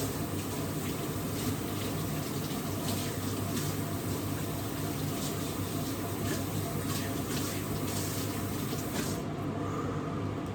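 Water running from a kitchen tap into a sink, with light knocks of things being handled under it. The running water stops near the end.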